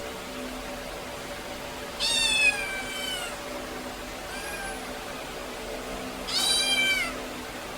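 A kitten meowing three times: a long high-pitched meow that drops in pitch, a short fainter one, then a loud one, over a steady low hum.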